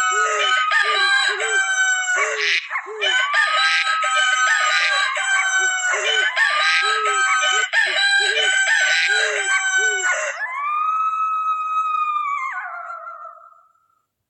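Roosters crowing, several cock-a-doodle-doos overlapping, with short low calls repeating underneath. Near the end one long crow trails away.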